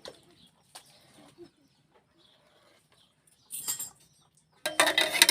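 Domestic chickens: faint sounds at first, then two sudden noisy bursts near the end, the second one loud, like a hen squawking and flapping its wings.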